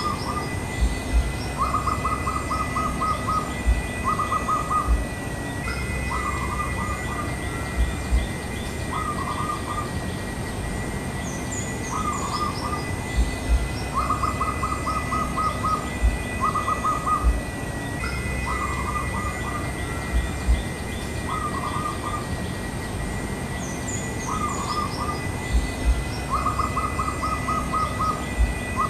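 Zebra dove (perkutut) cooing: short groups of soft notes around a quick staccato run of about eight notes, the phrase repeating about every six seconds. Under it runs a steady high-pitched whine, with faint higher chirps from other small birds.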